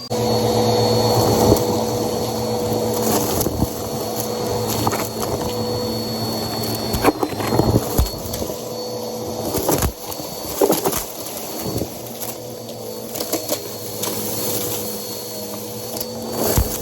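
Bissell PowerForce Helix upright vacuum switching on and running with a steady motor hum and whine, with scattered clicks and knocks.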